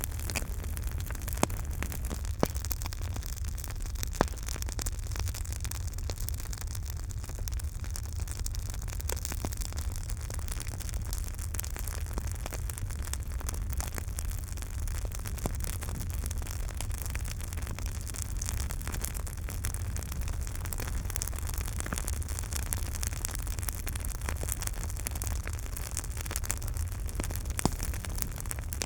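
Campfire burning: a steady low rumble and hiss with frequent small crackles. A few sharper pops stand out in the first few seconds and once near the end.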